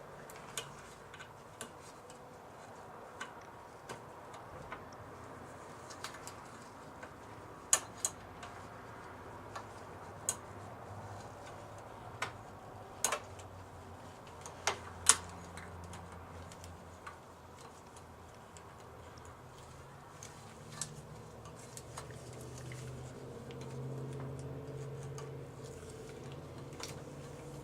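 Irregular sharp metallic clicks and ticks of a small tool working against the distributor shaft and pole piece as a tiny C-clip is pried off, a few louder snaps among them. A faint low hum comes up in the last few seconds.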